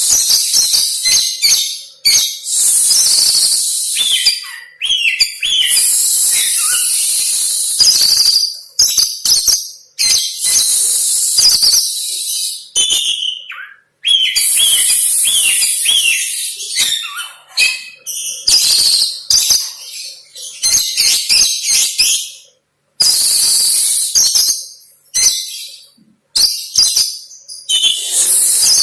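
Oriental magpie-robin (kacer) singing a varied song of mimicked lovebird calls. Long, harsh, high-pitched phrases of one to two seconds alternate with quick runs of short chirps and whistles, with brief pauses in between.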